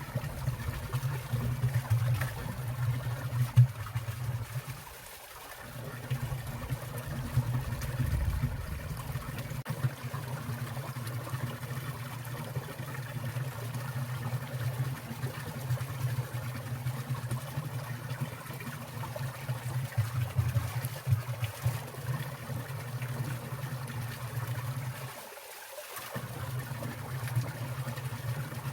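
Winter valley stream water trickling and splashing steadily. A low rumble underneath drops away briefly twice.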